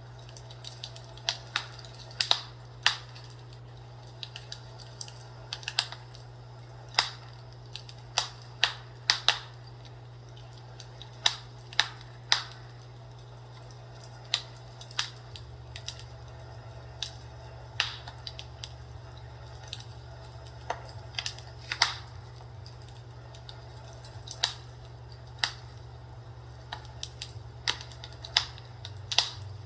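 Fireplace crackling: irregular sharp pops and snaps of burning wood, a few each second at times and sparser at others, over a steady low hum.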